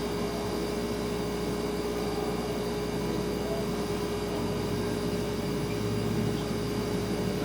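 Refrigerator running: a steady hum with one constant mid-pitched tone over a low drone and faint hiss.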